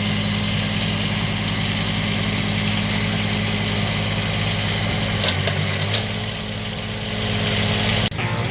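Three-cylinder Kubota D722 diesel of a mini excavator running steadily. The engine note changes about five seconds in, with a couple of clicks, and the sound cuts off abruptly near the end.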